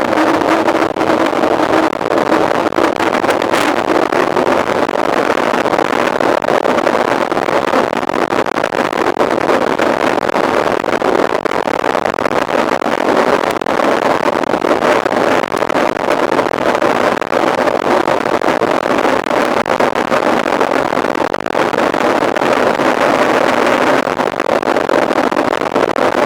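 Mountain bike being ridden at speed: steady wind noise buffeting the microphone over the hum of the tyres rolling, with many small knocks from the bumps in the trail.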